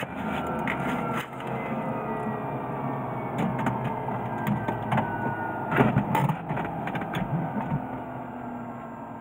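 Cabin noise of a Cessna P210 Silver Eagle's turboprop engine and propeller after landing, its faint whine slowly falling in pitch, with several knocks and rattles about halfway through. The sound fades away toward the end.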